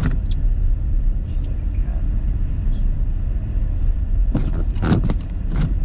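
Steady low rumble of road and engine noise inside a moving car's cabin. A voice speaks briefly near the end.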